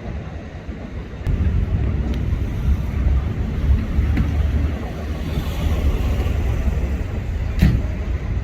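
A vehicle engine's low, steady rumble with wind on the microphone, growing louder about a second in. There is one sharp click near the end.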